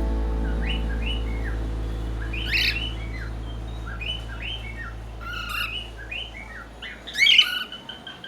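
Cockatiel giving a run of short, repeated chirps, with a louder squawk about seven seconds in. A low sustained music chord fades away underneath.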